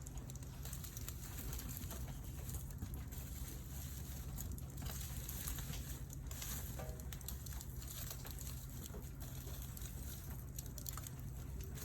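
Campfire of wood burning, crackling with scattered small pops over a steady low rumble.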